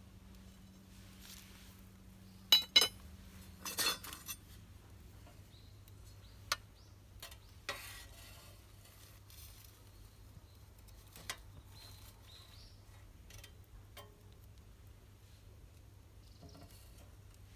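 Utensils and cookware clinking and knocking: a few sharp clinks close together about two and a half to four seconds in, then single scattered clinks.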